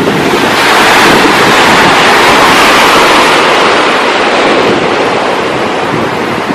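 Ocean surf: a wave breaks and its rushing wash swells about half a second in, holds for a few seconds and then slowly fades, with wind buffeting the microphone.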